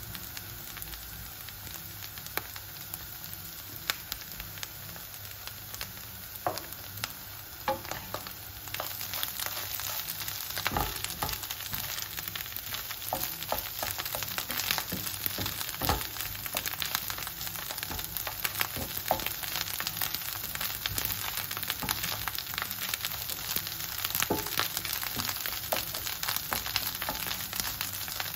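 Crumbled tempeh sizzling as it fries in oil in a frying pan and is stirred and turned with a wooden spatula, with occasional short taps and scrapes of the spatula. The sizzle grows louder about nine seconds in.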